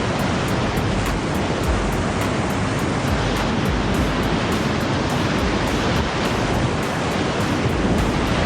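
Whitewater rapid rushing steadily around a kayak, an unbroken churning of water close to the microphone.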